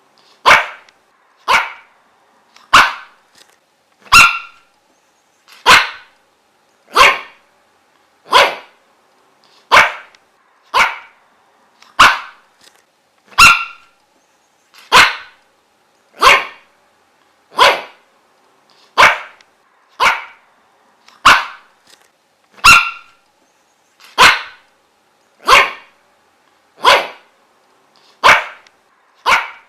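A dog barking single sharp barks, one about every second and a half in an even, unbroken rhythm, each bark alike and separated by silence.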